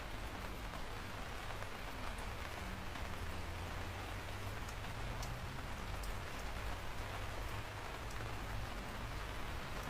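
Steady rain falling, a continuous hiss of drops with a deep low rumble underneath and faint scattered ticks of individual drops.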